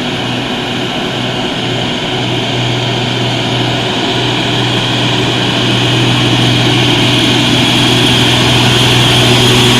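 Mitsubishi Fuso tanker truck's diesel engine under load climbing a steep incline: a steady drone that grows gradually louder.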